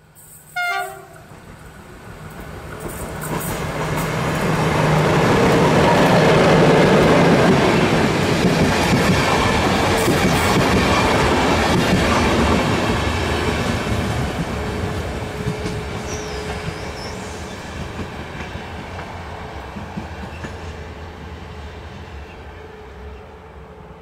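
HŽ class 1141 electric locomotive and passenger coaches: a short horn blast about a second in, then the train approaching and passing, its wheels clicking over the rail joints and squealing on the curve. The rumble is loudest around six to eight seconds in and fades slowly as the train runs away.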